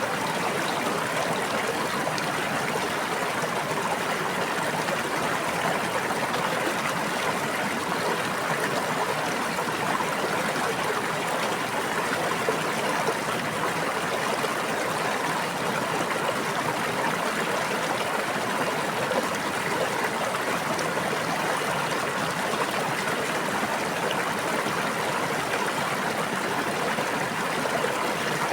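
Running water of a stream or brook, a steady babbling wash with no breaks.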